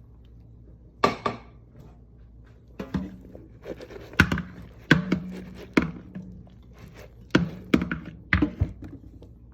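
A series of about ten sharp knocks and thunks from kitchenware being handled, irregularly spaced, some leaving a short low ring.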